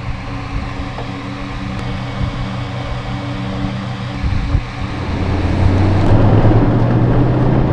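Pickup truck engine running steadily, then growing louder about five seconds in as the truck pulls away and drives off.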